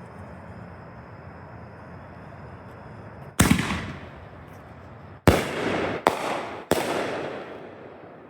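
Consumer triple-break firework mortar shell (Phantom X3) fired from a cardboard tube. A deep launch boom comes about three and a half seconds in, then three sharp breaks follow in quick succession about two seconds later, each trailing off.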